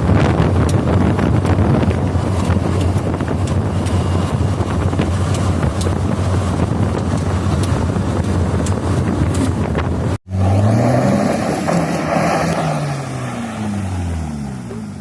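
Car running with heavy wind buffeting on the microphone over a steady low engine drone. After an abrupt cut about ten seconds in, the K-series petrol engine revs up quickly and then falls away slowly.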